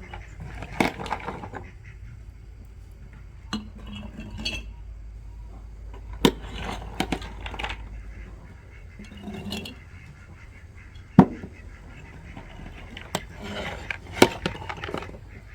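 Irregular clinks and knocks of hard objects being handled, about seven sharp strikes spread out, the loudest about 11 seconds in, with short rustling and scraping between them.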